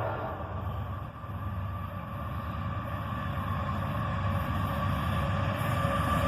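Approaching GE AC4400CW diesel-electric freight locomotive: a steady low engine rumble that grows gradually louder as it nears.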